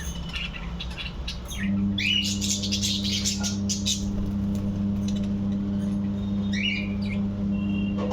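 Budgerigars chirping in short scattered calls, a busy cluster about two seconds in and another near seven seconds. Beneath them runs a steady low hum that gets louder about one and a half seconds in.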